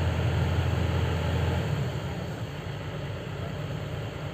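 Sany 500H excavator's diesel engine running with a steady low drone that drops in level about two seconds in.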